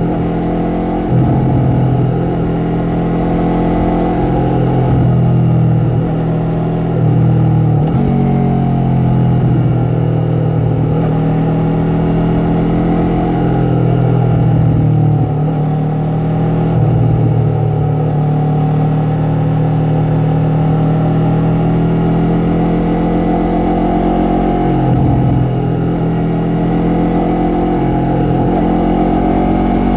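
Yamaha MT-03's parallel-twin engine and exhaust under way, the note rising and falling with the throttle, with several brief dips in pitch along the way.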